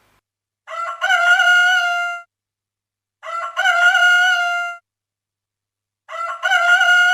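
A cock-a-doodle-doo crow, heard three times with short silences between. Each crow lasts about a second and a half and the three are nearly identical in shape.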